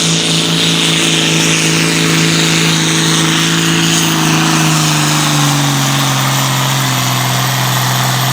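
Competition pulling tractor's engine running hard at high revs, with a broad exhaust hiss over it. Its pitch sags slowly through the second half, as the engine labours under the sled's load.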